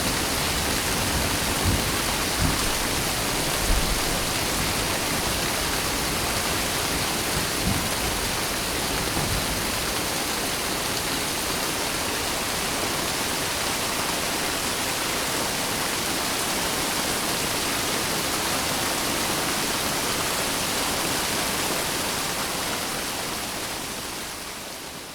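Steady heavy rain hissing, with some low rumbles in the first few seconds. It fades out near the end.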